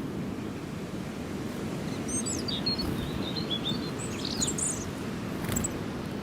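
Small birds chirping, a quick run of high twittering notes about two seconds in that lasts a couple of seconds, over a steady low background rumble.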